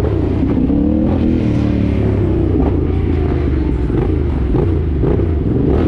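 Dirt bike engine running under way with a heavy low rumble; its pitch dips in the first second or two, then holds steady.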